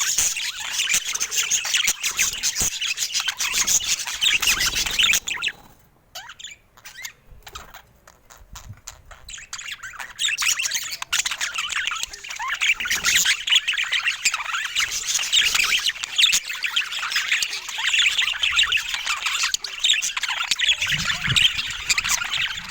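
A flock of budgerigars chattering and chirping in a dense, rapid warble. The chatter drops away to a few scattered calls for several seconds about a quarter of the way through, then builds back up to full chatter.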